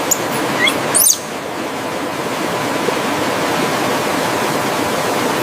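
Steady rush of flowing water in a forest ambience, with a few brief high chirps in the first second.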